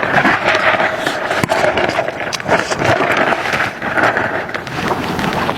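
Close-up eating sounds: a person chewing and smacking on food, a steady run of wet clicks and crackles.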